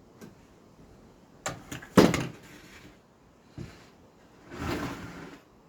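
Nail gun firing nails into pine fence-picket boards: two sharp shots about half a second apart, the second the loudest, then a softer knock and a short rasping noise near the end.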